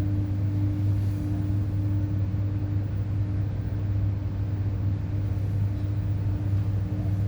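Hydroelectric power equipment humming steadily: a deep electrical hum with a fainter, higher overtone, typical of a transformer on a 50 Hz grid.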